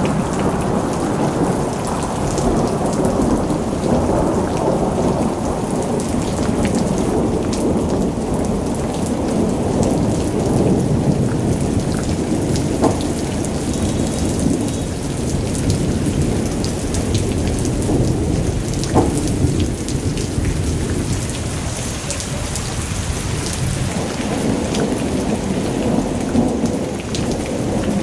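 Heavy rainstorm: rain pouring down in a dense, steady rush with a deep rumble underneath, and a couple of sharp ticks partway through.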